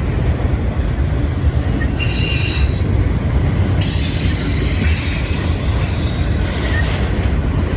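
Freight train cars rolling past close by: a steady low rumble with high-pitched wheel squeal, briefly about two seconds in and again from about four seconds to near the end.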